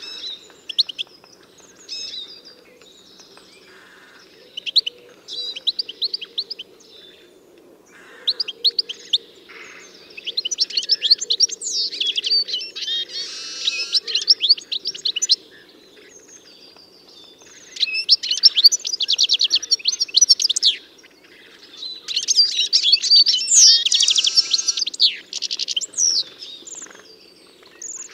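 A songbird singing: phrases of rapid high chirps and trills, some lasting several seconds, separated by short pauses, over a faint steady low hum.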